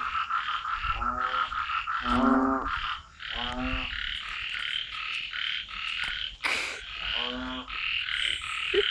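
A frog croaking: loud, half-second calls repeated about once a second, then after a pause once more, over a steady pulsing chorus of frogs and insects. A single sharp click sounds about two-thirds of the way through.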